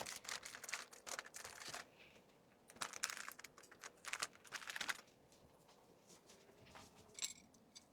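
Faint rustling, crinkling and small clicks of plastic packaging being handled, in two bursts of activity and a few last clicks near the end.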